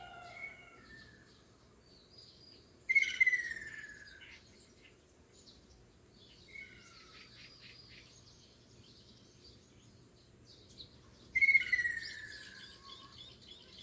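Wild songbirds singing: two loud song phrases about eight seconds apart, each sliding down in pitch, with quieter chirping between them over faint background noise.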